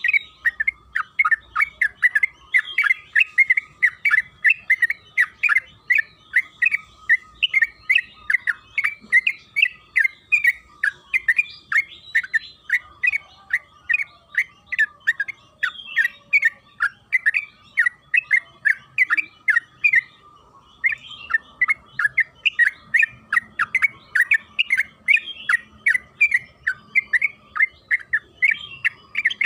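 Yellow-vented bulbul (trucukan) singing a long, unbroken run of quick chattering notes, several a second, pausing briefly about twenty seconds in.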